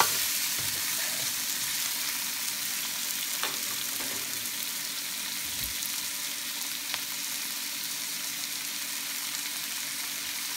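Pork belly, fish balls and onions frying in oil in a wok, giving a steady sizzling hiss. A few brief clicks come through it.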